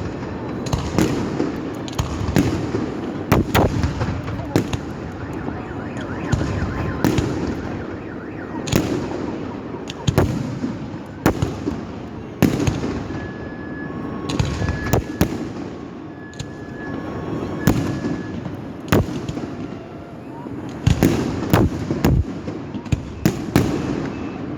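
Fireworks salute: a rapid, irregular series of sharp bangs and crackles over a continuous rumble of distant bursts. Partway through, a short electronic beep repeats several times, about once a second.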